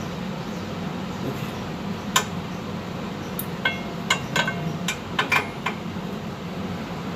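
A string of sharp metallic clinks and taps, some ringing briefly, from tools and parts being handled while a rear axle is fitted to its control arms. They start about two seconds in and come quickly near the middle, over a steady low hum.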